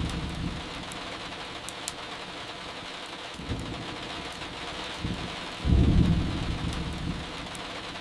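Steady rain with two rolls of thunder: a softer one near the middle and a louder one about two-thirds of the way through that fades over a second or so. Faint pops of crackling firewood come now and then.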